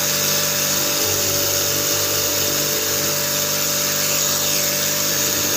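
Table-mounted jigsaw, fitted with a toothless knife-edge blade, running steadily at full speed.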